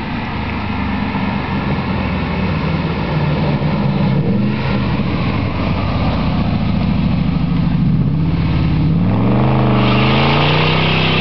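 2002 Dodge Dakota's 4.7-litre V8 running through a true dual exhaust with Smithy's glasspack mufflers, driving up and revving. Its pitch rises about nine seconds in, and a loud hiss joins it near the end.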